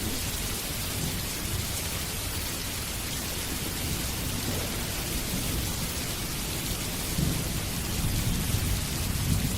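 Steady heavy rain with low rolling thunder rumbling underneath, the rumble growing louder in the last few seconds.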